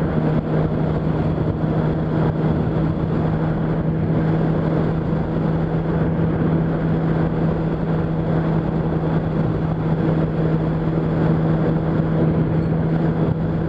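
Yamaha R1's inline-four engine at a steady cruise: a constant, unchanging drone under wind and road noise.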